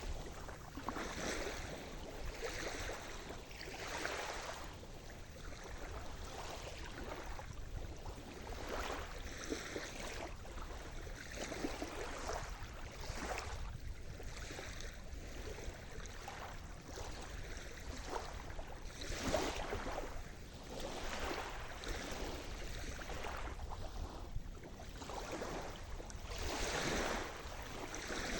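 Sea surf: waves washing and breaking on the shore as a continuous rush of water that swells and ebbs every second or two, with stronger surges about two-thirds of the way through and near the end.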